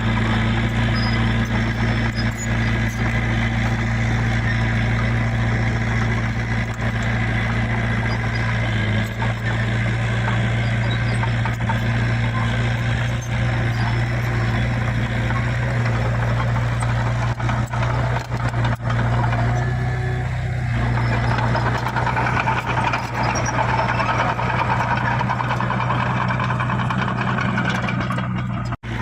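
Heavy diesel engine of earth-moving machinery running steadily at a constant pitch, its tone shifting slightly about two-thirds of the way through.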